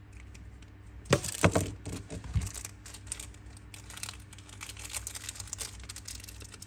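Zippo lighters being handled: a few sharp knocks and clinks about a second in, then a run of small irregular metal clicks and taps.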